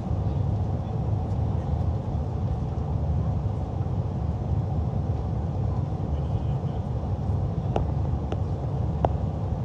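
Steady low rumble of an airliner cabin in flight, the engine and airflow noise of a passenger jet. Near the end come three short clicks or rattles, about half a second apart.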